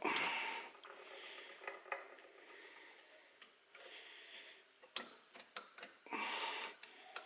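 Lambretta TS1 cylinder barrel being worked down over the piston and rings: faint metal scraping and a few sharp clicks, the sharpest pair about five seconds in, as the rings catch on the port and slip past, with soft breathing between.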